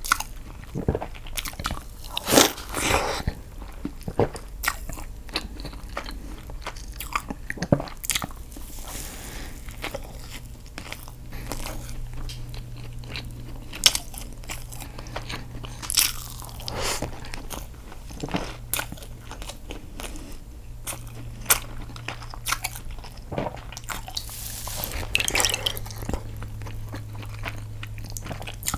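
Close-miked eating sounds: a person biting and chewing food, with sharp bites and mouth clicks at irregular intervals. A faint low steady hum sits underneath.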